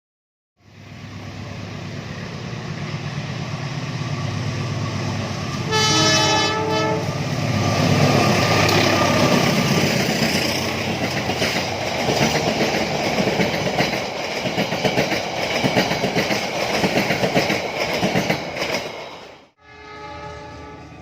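A train approaching with a building rumble. It sounds its horn for about a second, then passes close by with a loud rhythmic clatter of wheels over the rail joints. Near the end the sound cuts off and another short horn blast follows.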